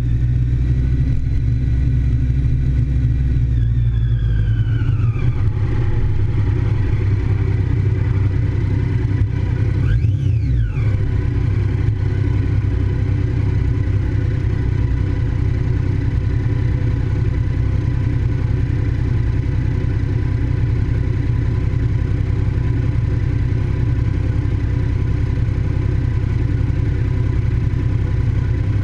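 Triumph Daytona 675 three-cylinder engine running at speed on track under a heavy wind rumble. Its note falls about four to five seconds in and then holds steady, with a brief rise and fall in pitch about ten seconds in.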